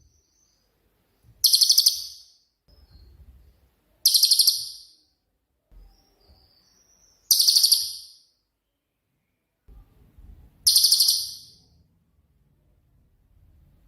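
Cililin songbird giving four short, loud bursts of very rapid, high notes, each about half a second long and ending quickly, roughly every three seconds. These are the clipped 'shot' phrases prized in the bird as a song tutor.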